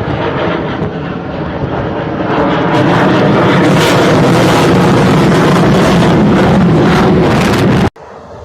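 Fixed-wing aircraft flying past. Its engine noise swells about two and a half seconds in to a loud, steady rushing sound, then cuts off abruptly near the end.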